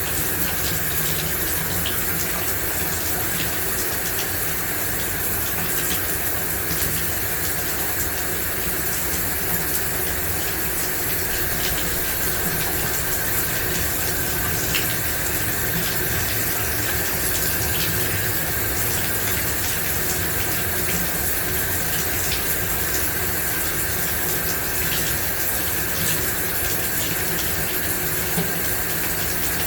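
Shower running steadily, water spraying and splashing in an even hiss with small scattered spatters.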